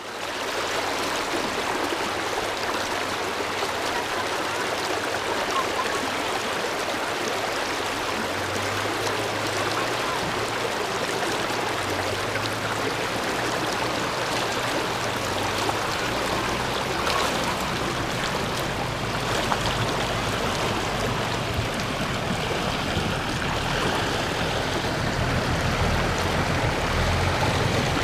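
River water rushing and splashing steadily as a Nissan Patrol 4WD fords the river. Under it runs a low engine drone that comes in about a third of the way through and grows stronger near the end.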